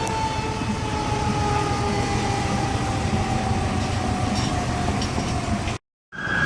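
Fire truck siren sounding one long tone that slowly falls in pitch, over the heavy rumble of the truck and traffic; it cuts off suddenly near the end.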